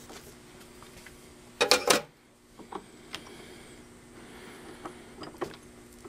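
Metal-and-plastic handling noises at a bench vise with soft plastic jaw pads: a loud double scrape and clank about a second and a half in, then a few light clicks and taps, over a faint steady hum.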